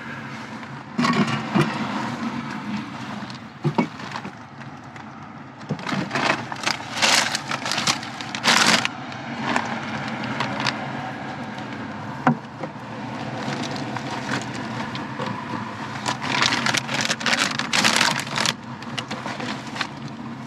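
Food items being handled and set into a little free pantry box: irregular knocks, scrapes and rustling of packages.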